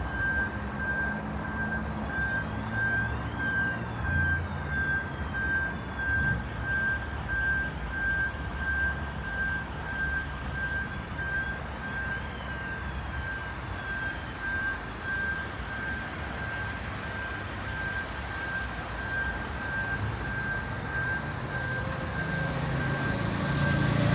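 Level crossing warning signal beeping steadily and evenly over the low running of road traffic waiting at the crossing.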